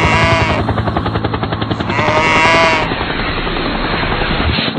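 Sheep bleating twice, each call about half a second to a second long: once at the start and again about two seconds in. Under the calls runs a steady, rapid mechanical chopping pulse like a helicopter's rotor.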